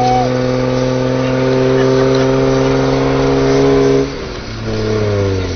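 Engine running at steady high revs, then throttled back about four seconds in, its pitch sliding down.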